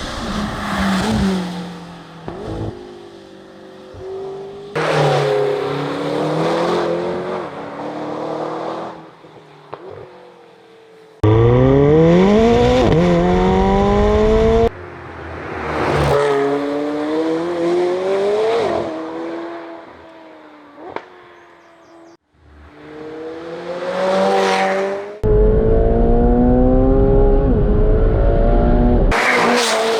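Supercar engines and exhausts in a run of short cut-together clips: cars accelerating hard with the engine pitch climbing and dropping at each upshift, and several passing by loudly.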